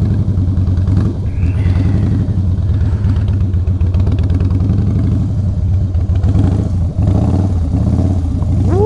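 Harley-Davidson V-twin engine running at low revs, with small swells in throttle, as the motorcycle creeps through a slow-speed U-turn with the clutch slipped in the friction zone.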